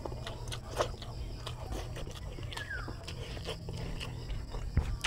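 Close-up wet chewing and mouth clicks of someone eating rice and squid adobo with his fingers.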